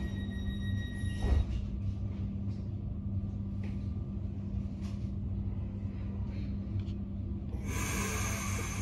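Elron commuter train standing at a station: a steady low hum with a thin high tone that stops about a second in, together with a knock. Near the end a loud burst of hissing air starts.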